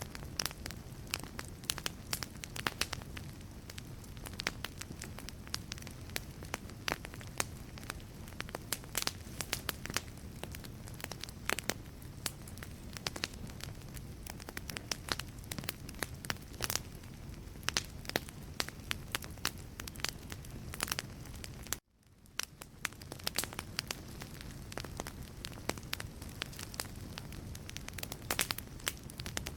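Wood fire burning in a fireplace: logs crackling with frequent sharp pops over a steady low rumble of the flames. About three-quarters of the way through, the sound cuts out for a moment and fades back in.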